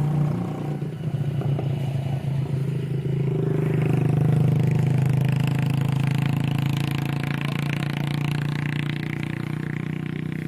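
A mini tractor's motor running steadily. About three and a half seconds in, a rougher, higher-pitched noise joins it and slowly fades toward the end.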